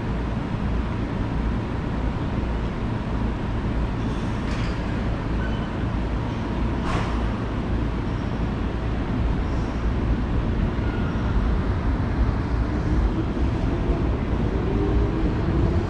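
Electric commuter train running through a railway station: a steady low rumble, with two sharp clicks about four and seven seconds in, and a faint motor whine rising in pitch near the end.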